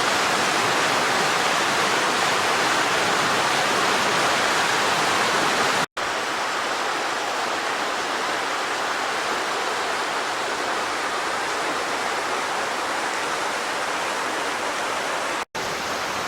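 A rocky creek rushing steadily over small waterfalls and rapids. Two brief dropouts break it, and the sound is a little quieter after the first.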